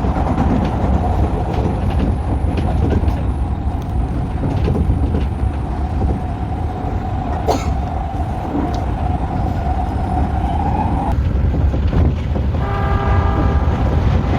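Odakyu Line electric train running on the track: a steady rumble with a steady whine that cuts off about eleven seconds in, and a short horn toot with several pitches at once near the end.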